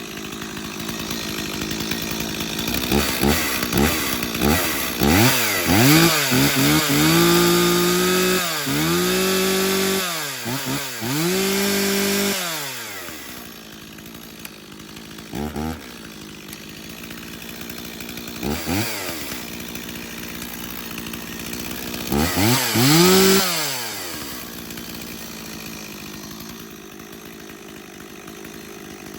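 A 1985 Stihl 026 Farm Boss two-stroke chainsaw running just after a cold start. It is revved to full throttle and let back down several times in the first twelve seconds, then idles with a couple of short blips and one more full rev a little past twenty seconds in.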